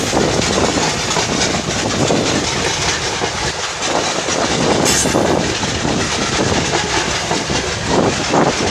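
Freight train's boxcars and hopper cars rolling past, their steel wheels clattering on the rails in a steady clickety-clack.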